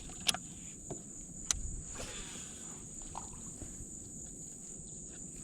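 A steady, high-pitched insect chorus droning from the surrounding trees and grass, with a couple of sharp clicks near the start.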